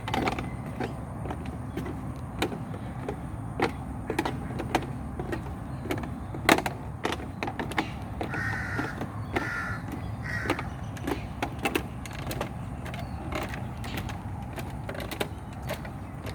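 A crow cawing three times in quick succession a little past the middle, over a steady low rumble with scattered clicks.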